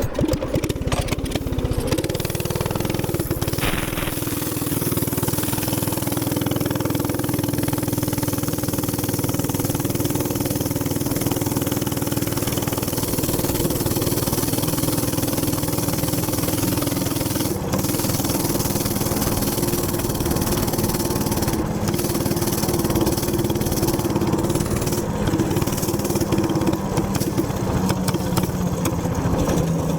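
Gas minibike engine running hard at steady, high revs, pulling the bike up a long hill under heavy load.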